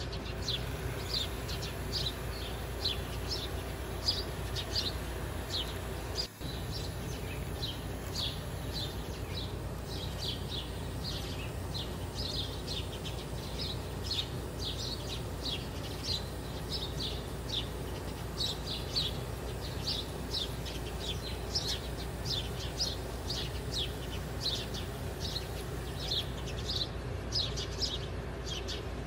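Small birds chirping: an even, unbroken run of short high chirps, two or three a second, over a steady low hum, with a brief break about six seconds in.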